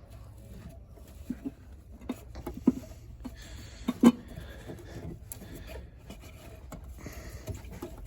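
Hands working the electrical connector off an ABS module: a series of light clicks and knocks with plastic rubbing, the sharpest click about four seconds in.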